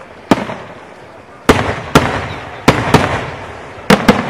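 Pellicani aerial firework shells bursting in quick succession: seven sharp booms, some in close pairs, each followed by a rolling echo.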